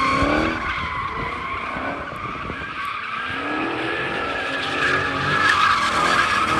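A car spinning its tires in a burnout, with a steady high squeal and the engine revving up and down.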